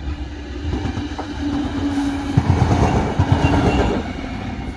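Battery-electric locomotive and its train passing close by at speed, a steady rumble with the wheels clacking over rail joints, loudest about two to four seconds in.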